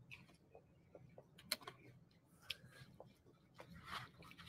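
Near silence with a few faint, scattered clicks and soft mouth noises of a person chewing a mouthful of food.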